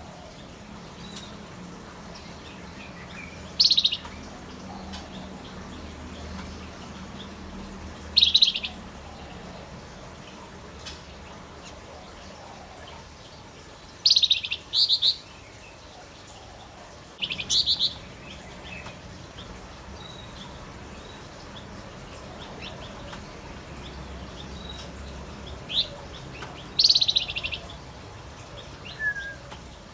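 Male Javan fulvetta (Wergan Jawa) calling in short, high, rapid chattering bursts, about seven of them spaced a few seconds apart, with a faint steady low hum beneath.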